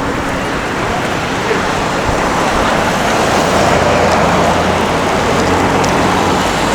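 City street traffic: a motor vehicle passes close by, its tyre and engine noise swelling in the middle and then easing off.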